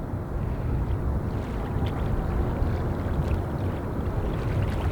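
Jet noise from an Airbus A350-900 passing on its landing approach, a low, steady roar that swells slightly about a second in, mixed with wind buffeting the microphone.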